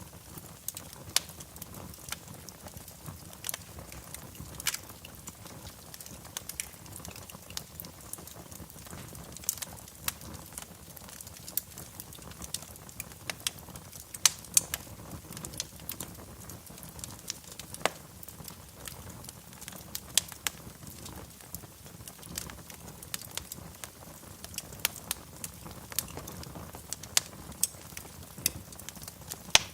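Wood fire crackling in a fireplace, with a steady low hiss and frequent irregular pops and snaps, a few of them sharper and louder.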